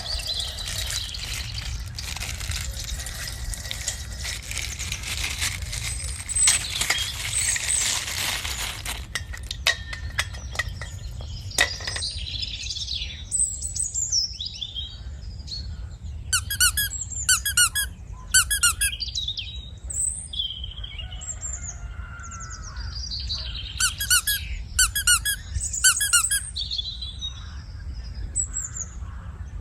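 Crinkling and rustling of plastic with many small crackles for the first several seconds, then a few sharp clicks. After that, birds chirp repeatedly in short bursts of several quick notes each, over a steady low rumble.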